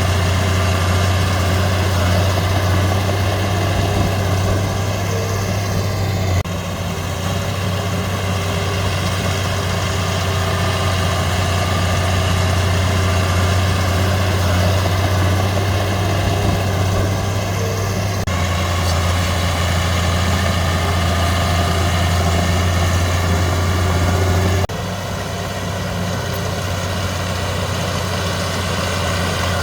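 Heavy diesel engine of earthmoving machinery running steadily with a deep, constant hum. The sound drops abruptly in level about six seconds in and again near the end.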